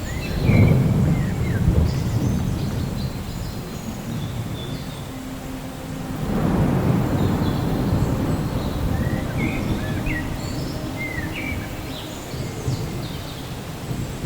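Thunder rumbling twice over steady rain: a deep roll about half a second in that fades out over a few seconds, and another about six seconds in. Birds chirp briefly over the rain.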